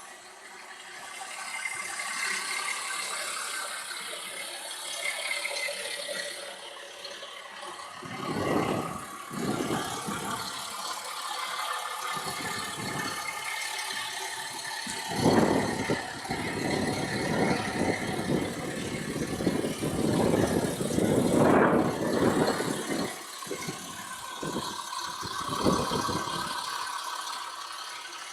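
Eurocopter EC135 helicopter running, a steady turbine whir and rotor rattle, with irregular gusts of low wind rumble on the microphone from about eight seconds in.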